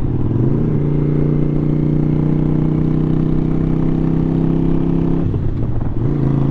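Motorcycle engine running under way. Its pitch rises about half a second in and holds, then dips and breaks briefly a little past five seconds in, as at a gear change, before it settles lower.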